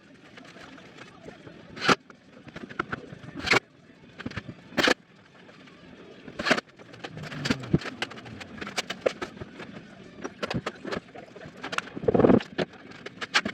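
Construction work on boards: sharp knocks roughly a second and a half apart in the first half, with scraping and handling noise between them and a busier patch of knocks near the end.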